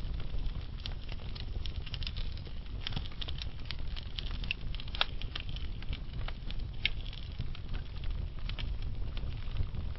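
Wood fire burning slowly in a fireplace: a steady low rumble of the flames with irregular sharp crackles and pops from the burning logs, the loudest pop about halfway through.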